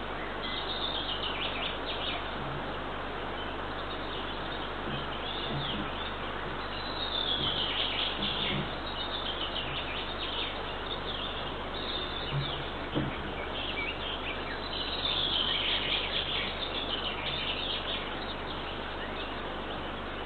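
Songbirds singing, several times repeating a falling trilled phrase, over a steady outdoor hiss, with a few faint low knocks in the middle.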